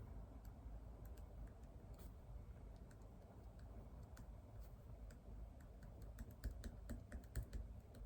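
Faint typing on a computer keyboard: scattered keystrokes at first, then a quicker run of keys in the last couple of seconds.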